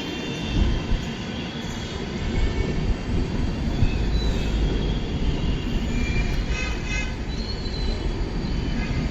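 Passenger coaches of a train being shunted rolling past, with a steady rumble of wheels on the track. Thin, high wheel squeals come and go in the middle.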